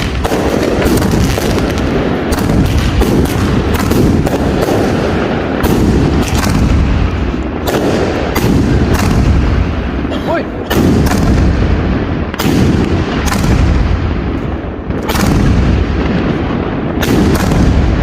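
Firecrackers and fireworks exploding in a dense barrage: sharp bangs at an irregular pace, sometimes several a second, over a continuous rumble of many more explosions.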